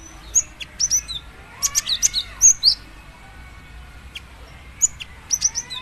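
Female cinereous tit (gelatik batu) calling: quick runs of short, high, sharp chirps, coming in clusters about half a second in, through the middle, and again near the end.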